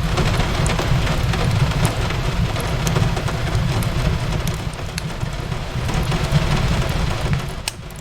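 Steady rain falling on a window, with a deep low rumble underneath and scattered sharp crackles and pops from a fireplace.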